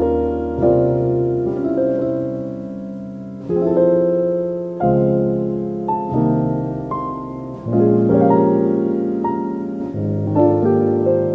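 Slow, calm piano music: chords struck every second or two and left to ring, with a simple melody on top.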